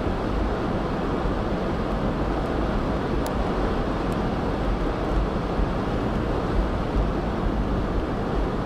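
Strong blizzard wind buffeting the microphone: a steady rush with an uneven, gusting low rumble.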